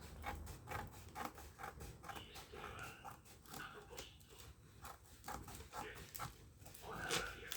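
Scissors snipping paper: a run of quick, irregular snips. A short voice-like sound comes near the end.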